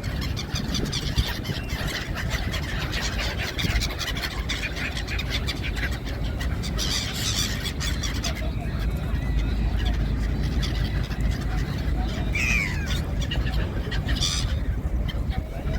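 Gulls calling, including one clear call about twelve seconds in, over a steady low rumble.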